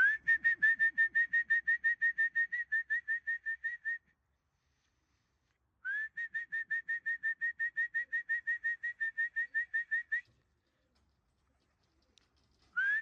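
Electronic pigeon-race clock beeping, the sign of returning birds being registered at the loft. The beeps are short, high and rapid, about six a second, in runs of about four seconds: two full runs, and a third starting just before the end.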